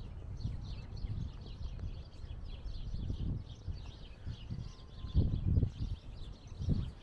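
Many small birds chirping and twittering continuously, over irregular low buffeting of wind on the microphone that swells about five seconds in and again near the end.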